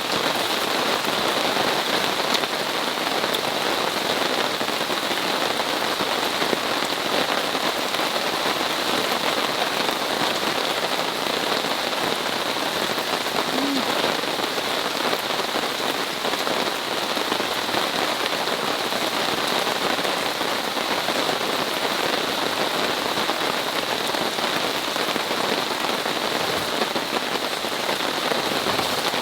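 Heavy rain falling steadily on a camping tarp, a dense, even patter of drops.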